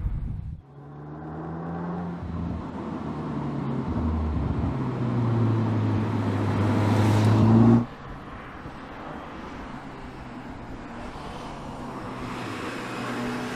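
2020 Audi S3's turbocharged 2.0-litre four-cylinder engine accelerating and growing louder, with a step in pitch about four seconds in like a gear change. About eight seconds in, the sound drops abruptly to a quieter, steady run.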